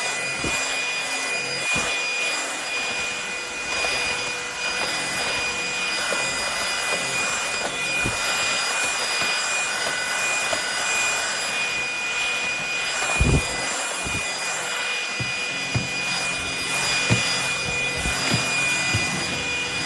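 Cordless stick vacuum running steadily, its motor giving a whine of several fixed high tones over the rush of air, with a few knocks along the way, the loudest about 13 seconds in.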